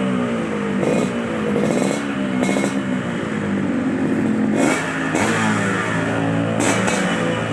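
Yamaha RX-King single-cylinder two-stroke motorcycle engine revved repeatedly through an aftermarket under-slung Lobster exhaust, its pitch rising and falling with each blip of the throttle.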